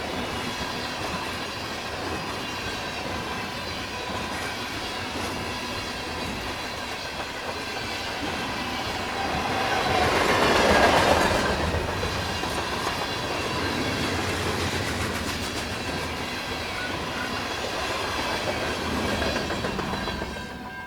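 CN freight train rolling past, its wheels clicking over the rail joints with steady high squealing tones from the wheels. The sound swells louder about halfway through, then eases again.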